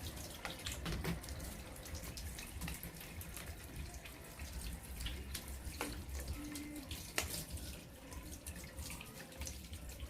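Tap water running and splashing as electric fan parts are washed by hand, with scattered small knocks and clicks from the parts being handled.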